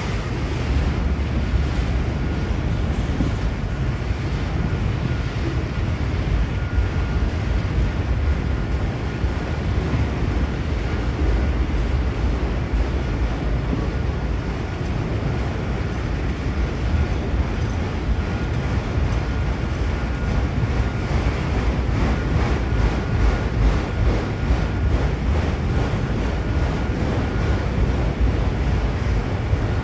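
Freight train of autorack cars rolling past close by: a steady rumble and clatter of wheels on rail, with a thin high tone that comes and goes.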